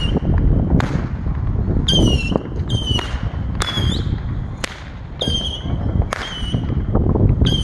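Small consumer firework going off in a series of sharp pops about once a second, most followed by a short, high whistle.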